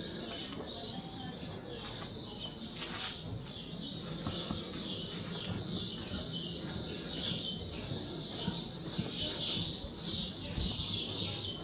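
Small birds chirping continuously in a dense chatter, over a steady background rush.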